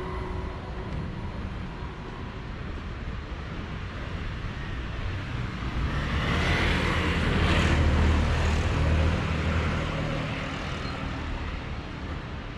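Street traffic with a steady low rumble. A motor vehicle passes close by, its engine noise swelling to a peak about eight seconds in and then fading.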